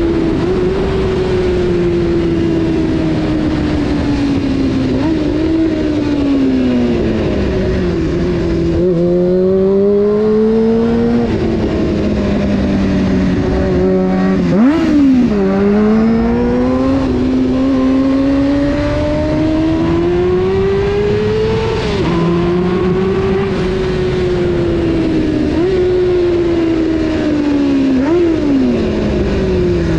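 Honda CBR600 F4's inline-four engine under way, its pitch climbing and falling as it is ridden through the gears, with quick drops and jumps at the shifts several times over. Steady wind and road noise runs underneath.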